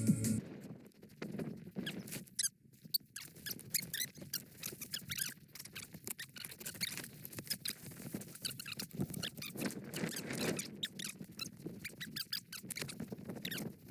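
Cold snow squeaking and crunching under skis or ski boots in a quick, irregular run of sharp squeaks.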